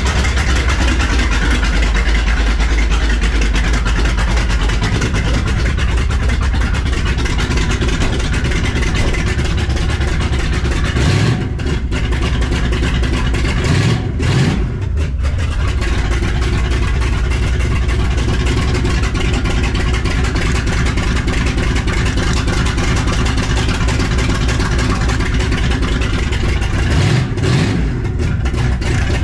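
1968 Dodge Charger R/T's V8 idling on a freshly installed Demon carburetor, steady and loud, with a few short revs of the throttle: once about eleven seconds in, twice a little later, and once more near the end.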